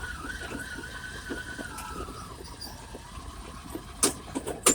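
Argo ATV's brakes squealing in a steady, slightly wavering high tone that drops a little in pitch and fades out about three seconds in, over the low rumble of the vehicle. Two sharp knocks follow near the end.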